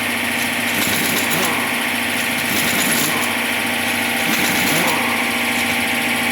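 An engine running steadily, with a continuous drone and small rises and falls in pitch.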